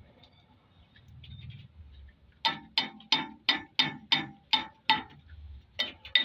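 Hammer tapping on a metal engine part: about eight quick, evenly spaced blows at roughly three a second, then two more near the end.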